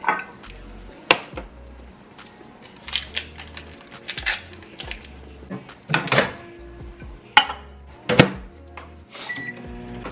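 Kitchen clatter: sharp knocks and clinks of dishes and utensils, about seven separate hits spread unevenly, over background music.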